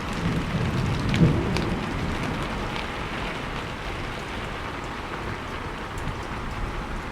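Steady rain falling, with a low roll of thunder dying away in the first second or two and scattered drops ticking.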